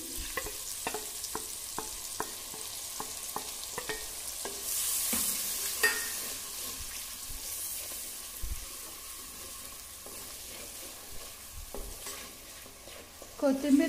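Ginger, garlic and coriander paste sizzling in hot oil in a clay pot while a wooden spatula stirs it, with many light knocks of the spatula against the pot, most of them in the first few seconds. The sizzle grows louder for a few seconds around the middle.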